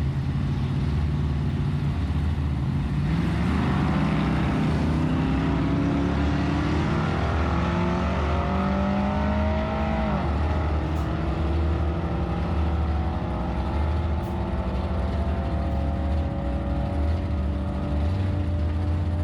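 Drag race pass of a Chevrolet Nova and a Chevrolet C10 pickup with a 6.0 V8: the engines idle at the line, then launch about three seconds in and climb in pitch under full throttle, dropping at an automatic upshift about ten seconds in and again around fifteen seconds before climbing again.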